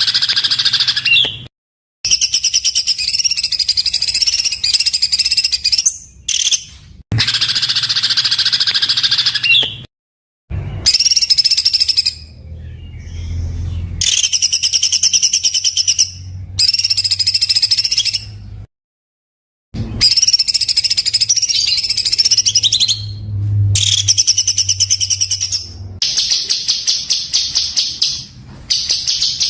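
Songbird song for a training (masteran) recording: harsh, very rapid, tightly packed strings of notes, the 'tembakan kasar' song type. It comes in bursts of a few seconds, each cut off abruptly into silence, about eight bursts in all.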